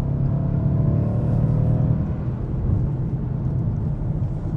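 Mercedes-AMG C63's twin-turbo V8 running under way, heard from the driver's seat of the open-top Cabriolet as a steady low rumble mixed with wind and road noise.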